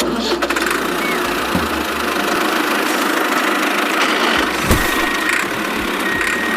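Remote-control mini tractor's motor running steadily, a dense engine-like rattle with a few light knocks.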